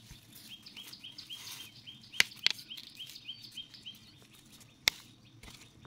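A bird calling a rapid, even series of short high chirps, about five a second, that stops a little before the end. Three sharp clicks stand out over it, two close together about two seconds in and one near the end.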